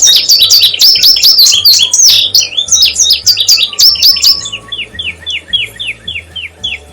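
Indigo bunting singing: a fast run of high, sharp down-slurred notes that gives way, past the middle, to a slower string of falling notes.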